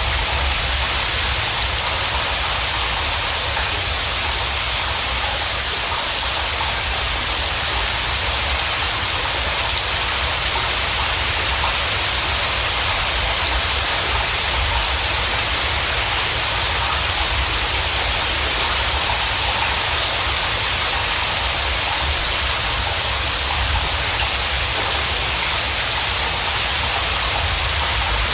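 Steady rain falling, an even hiss of drops with no break or change in strength.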